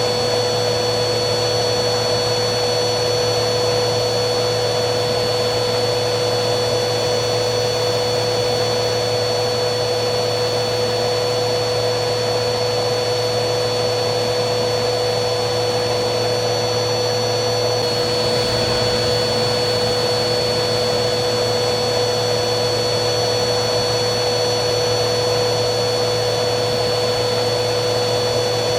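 Vacuum cleaner motor running steadily, a constant rush of air with a steady hum and a high whine. About 18 seconds in, the high whine shifts slightly in pitch.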